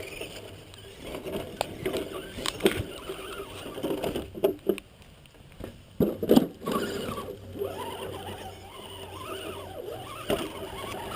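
Radio-controlled crawler truck driving, its electric motor and gears whining steadily, with several knocks and clatters as it goes over the ground, the loudest about six seconds in.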